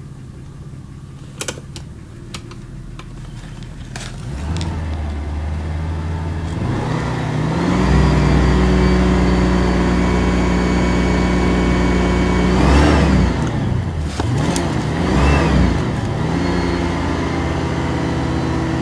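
Fuel-injected 4.2-litre DOHC inline-six (XK) engine of a 1986 Jaguar XJ6, heard from inside the cabin. It idles at first with a few light clicks, then is revved up and held steady around 3,000 rpm, blipped quickly twice, and held a little lower before the revs drop away near the end.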